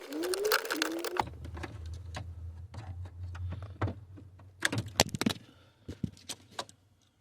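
Scattered clicks and light rattles of tools, wiring and plastic dash parts being handled during headlight switch connector work, over a low steady hum.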